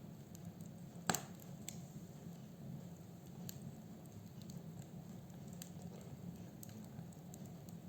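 Wood fire burning in a fireplace: a low steady rumble of flames with scattered small crackles and one loud pop of burning wood about a second in.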